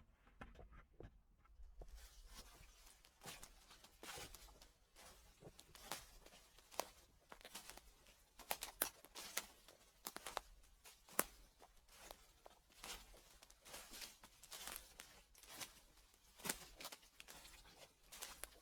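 Footsteps crunching through dry fallen leaves in a slow, steady walk, about one crackling step a second, starting about two seconds in.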